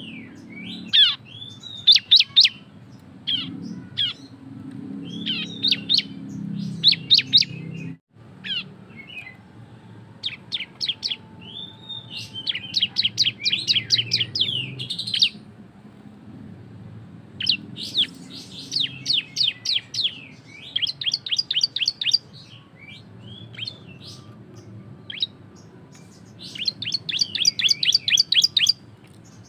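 Ciblek (bar-winged prinia) singing its loud 'ngebren' song: bursts of sharp high chips strung into fast rattling trills of about ten notes a second, repeated with short pauses between.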